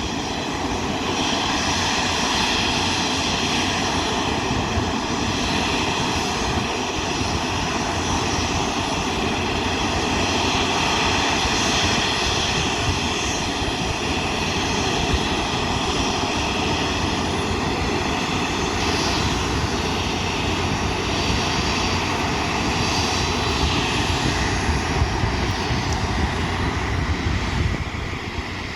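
Boeing 737-300 freighter's CFM56 turbofan engines running steadily: a jet whine of several high tones over a rumbling roar. The sound drops a little near the end.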